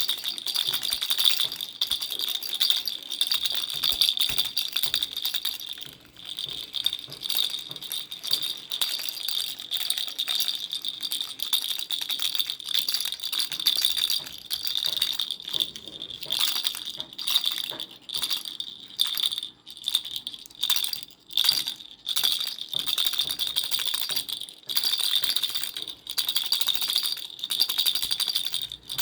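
Baby rattle being shaken, a dense fast rattling with a bright, high ring. It runs steadily, breaks into shorter separate shakes around the middle, then runs steadily again.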